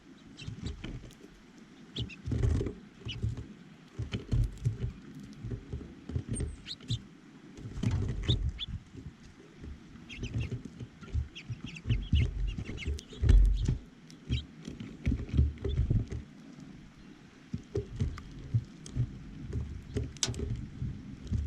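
Small birds at a feeder close to the microphone: irregular knocks and taps from birds landing and pecking, with short high chirps scattered throughout.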